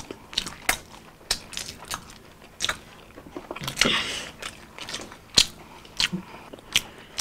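Crisp bites and chewing of McDonald's Twister Fries and a burger: a string of short, sharp crunches at an uneven pace.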